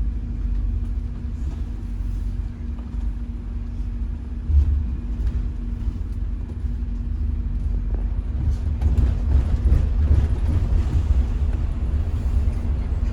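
Low rumble of a moving public-transport vehicle heard from inside, with a steady hum and light rattles, growing a little louder in the second half.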